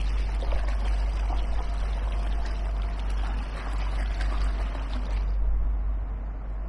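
Water rushing and splashing along the hull of an inflatable kayak under way, over a steady low rumble. The splashing thins out about five seconds in.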